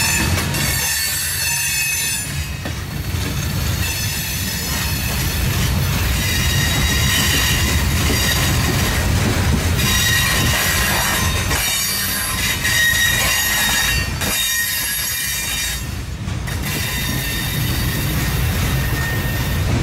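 Freight train's open hopper cars rolling through a curve: steel wheel flanges squealing on the rail in high tones that come and go several times, over a steady low rumble of wheels on track.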